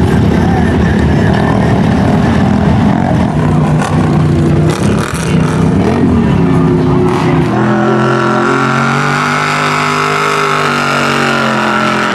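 Off-road truck engine revving hard. It is rough and uneven at first, then held at high, steady revs for the last few seconds.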